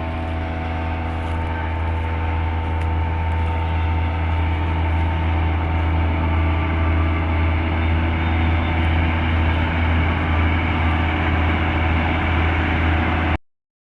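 New Holland combine harvester running steadily while harvesting wheat, a loud machine drone with a deep hum that grows a little louder, then stops abruptly near the end.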